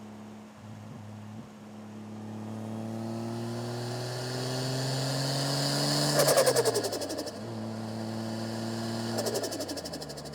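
Toyota 1JZ-GTE turbocharged straight-six revving up slowly for about six seconds, then snapping off the throttle with a loud, rapid turbo flutter. A second, shorter rev ends in another flutter before the engine drops back to idle near the end.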